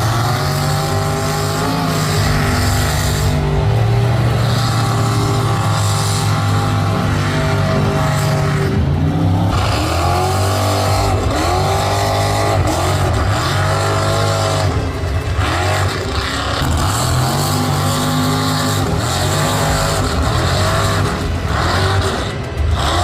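Mud bog truck engine revving hard and repeatedly, its pitch climbing and dropping again and again.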